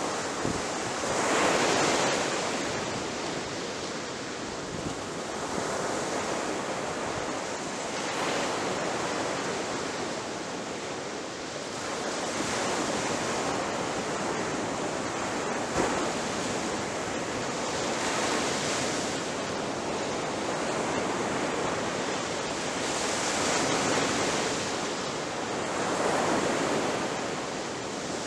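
Ocean waves breaking on a shore: a continuous rushing wash of surf that swells as each wave crashes and eases between them, every few seconds.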